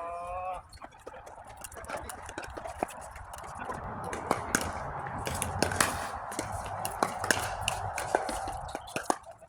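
A pickleball rally: paddles pop against the plastic ball, and the ball bounces on the court, giving sharp pops a second or so apart. A brief voice is heard right at the start, and there is a steady background murmur.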